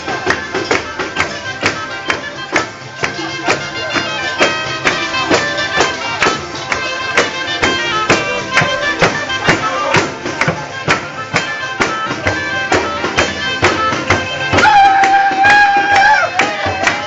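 Southern Italian folk music played live: a frame drum keeps a fast, even beat under wind and reed melody instruments, with a loud held high note near the end.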